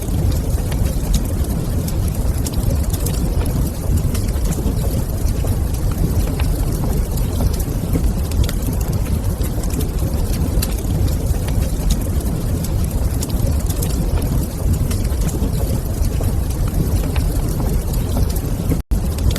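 Wood fire in a fireplace crackling, with frequent small sharp pops over a steady low rumble. The sound cuts out for a split second near the end.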